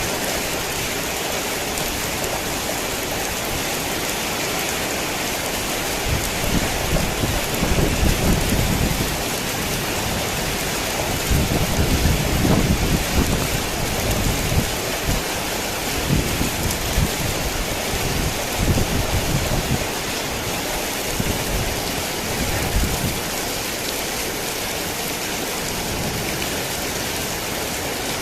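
Heavy rain falling in a steady dense hiss, with low rolling rumbles of thunder swelling up several times through the middle and fading out again.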